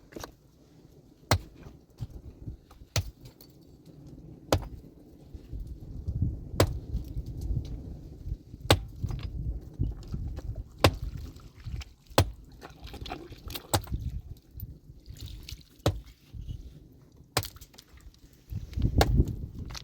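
Pickaxe striking rock again and again, one sharp blow about every one and a half to two seconds, with low knocking and scraping of stones in between.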